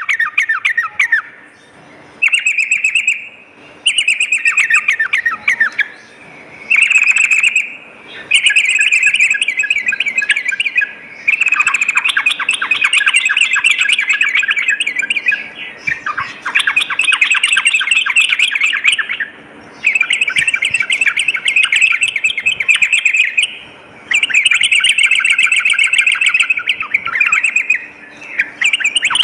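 Yellow-vented bulbul (trucukan) singing in rapid chattering bursts. It repeats strings of quick, bubbling notes lasting one to four seconds each, with brief pauses between bursts.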